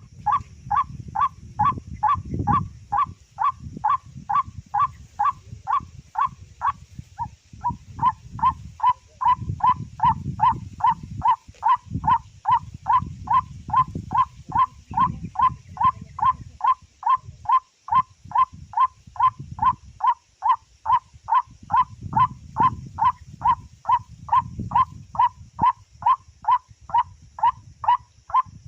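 White-breasted waterhen (ruak-ruak) call: a short note repeated about three times a second, with a brief pause about seven seconds in. A low uneven rumble runs underneath.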